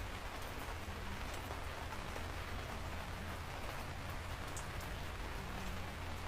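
Steady rain falling: an even hiss with a low rumble beneath it and scattered faint drip ticks.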